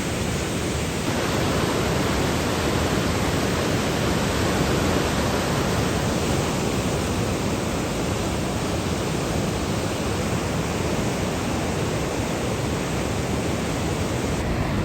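A river swollen in flood, raging past with a steady, unbroken rush of water.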